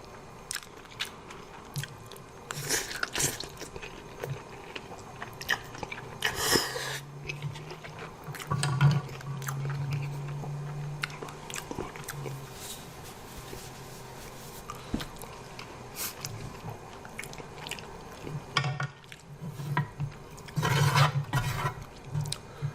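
A person chewing and biting food close to the microphone, with many small wet mouth clicks and a few louder noisy bursts. A low steady hum comes in the middle for a few seconds.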